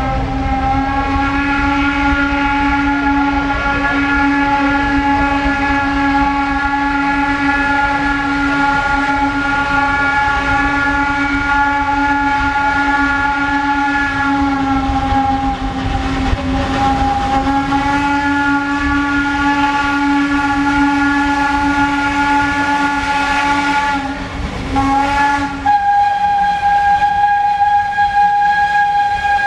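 A train's horn sounding one long, steady chord over low rumble. It breaks briefly about 24 seconds in and sounds again in a short blast. It then carries on as a higher chord with its lowest note gone.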